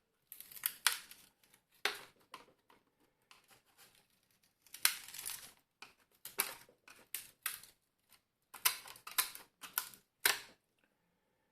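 Irregular clicks, taps and short scrapes of a steam iron's plastic and metal parts being handled and worked loose during disassembly, with one longer scrape about five seconds in.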